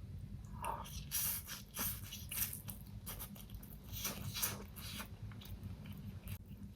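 A person eating close to the microphone: wet chewing and lip-smacking, with quick clicks that come in two spells, starting about a second in and again around four seconds.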